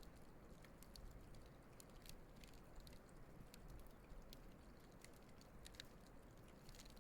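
Wood campfire burning faintly, with irregular small crackles and pops over a low steady hiss.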